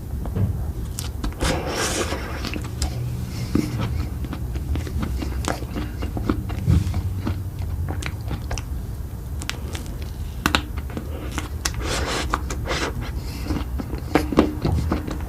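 Close-miked eating: biting and chewing with many irregular sharp, crunchy clicks, over a steady low hum.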